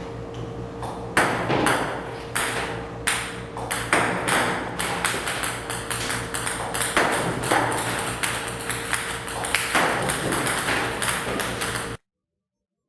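A quick, irregular run of sharp ringing pings and taps over a steady faint hum. It cuts off abruptly into dead silence near the end.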